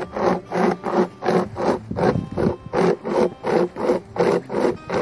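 Hand saw cutting through firewood in fast, even back-and-forth strokes, about three a second.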